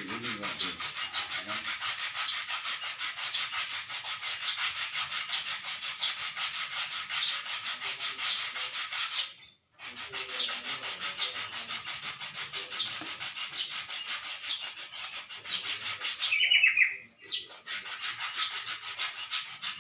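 Hand sanding: sandpaper rubbed back and forth over a surface in steady, even strokes, with a brief pause just before halfway.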